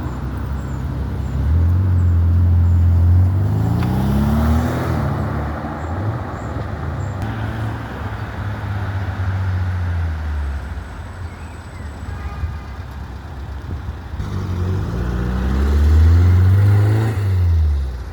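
Car engines accelerating hard as cars pull away. There is a deep engine note with two rising revs, one at about three to five seconds in and another at about fifteen to seventeen seconds in.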